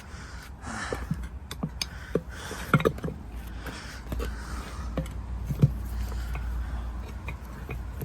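Irregular knocks, clicks and scraping of hand tools and rubber as a mini bike tire is worked on its rim, with two sharper knocks about three seconds and five and a half seconds in.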